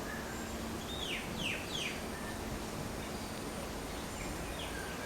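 Birds calling over steady background noise: three quick notes falling in pitch about a second in, and another falling note near the end.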